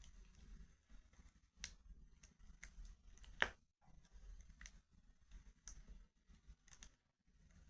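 Wood fire crackling faintly in a fireplace: scattered sharp pops and ticks, with one louder pop about three and a half seconds in, over a low rumble.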